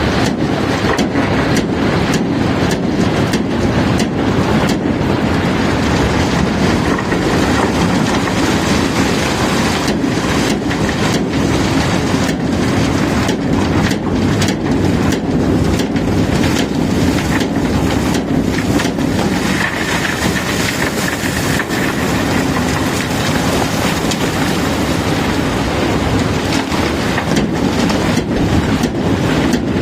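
Cobblestones being unloaded from a barge, rattling and knocking continuously over a steady machinery rumble.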